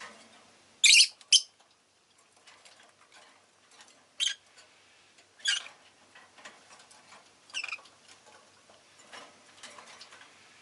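Rosy-faced lovebird giving short, sharp chirps: two loud ones close together about a second in, then single chirps every second or two, with faint clicks and rustling between.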